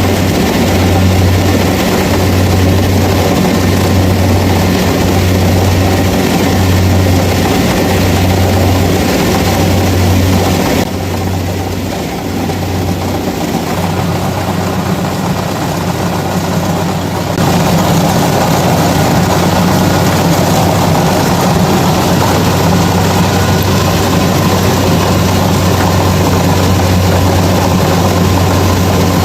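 Kubota DC-70 combine harvester's diesel engine running steadily under load, with a low drone that pulses about once a second for the first dozen seconds and then evens out. It dips a little quieter for a few seconds midway.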